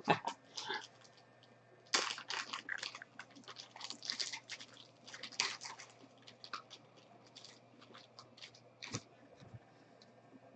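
Crinkling and rustling of plastic sleeves and trading cards being handled, a quick run of small crackles that is busiest in the first half and thins out toward the end.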